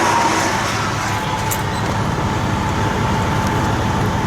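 Engines of low-flying WWII warbird aircraft passing overhead: a steady engine drone with a high tone that dips slightly in pitch about half a second in, over a low rumble.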